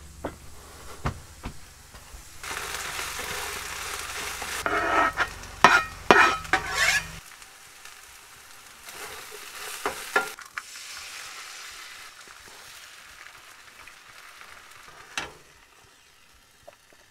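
A potato, egg and vegetable scramble sizzling in a frying pan, with a spatula scraping and stirring it in a short run of loud strokes partway through.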